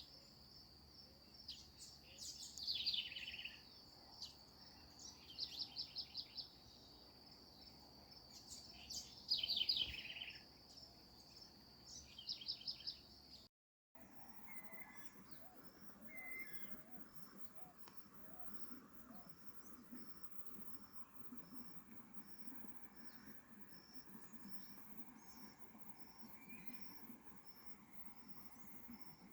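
Birds singing, with loud trilled phrases that fall in pitch over a steady high insect drone. About 13 seconds in, the sound cuts out for an instant. Afterwards come fainter high chirps repeated evenly, a little more than once a second.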